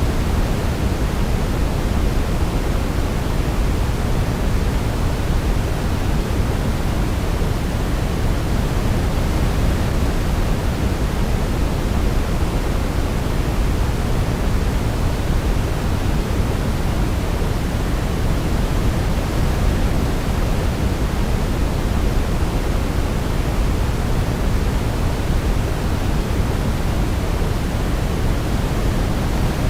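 Steady sleep-aid noise of the pink-noise kind: an even, unbroken hiss, deepest and strongest in the low end.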